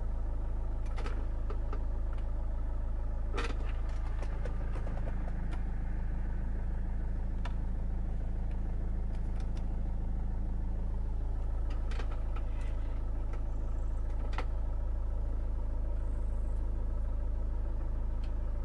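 Winstorm SUV's engine idling steadily, with a few light clicks over it.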